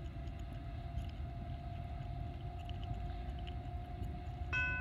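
Steady low rumble of an approaching freight train's diesel locomotives, with a faint steady tone above it. Near the end a ringing, bell-like chime starts, repeating about three times a second.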